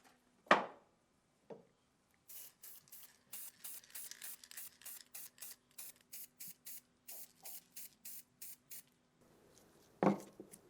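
Short hissing sprays, about three a second for several seconds, between a knock about half a second in and another knock near the end.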